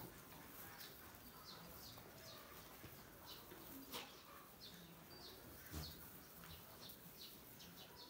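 Faint, repeated chirps of small birds, each a short downward sweep, with two sharp knocks about four and six seconds in.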